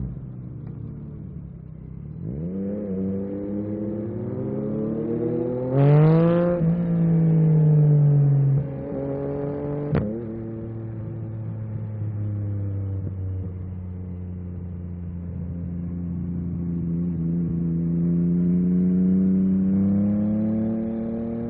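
Yamaha MT-09 SP three-cylinder motorcycle engine accelerating with rising revs, loudest a few seconds in. A sharp crack comes about ten seconds in, then the engine runs on with its revs slowly climbing and easing.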